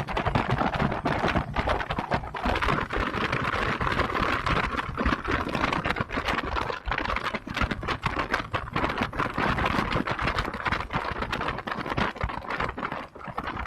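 Motorcycle on the move: the engine running under a steady, dense rattle and buffeting on the camera's microphone.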